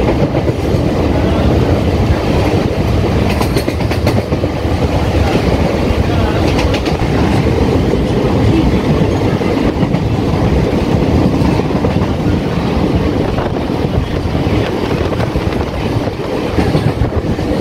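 Local train running along the track: a steady, loud rumble of wheels on rail, with a few rhythmic clicks from the wheels crossing rail joints a few seconds in.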